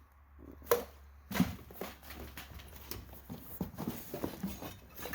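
Footsteps: irregular steps and small thuds, with two sharper knocks in the first second and a half.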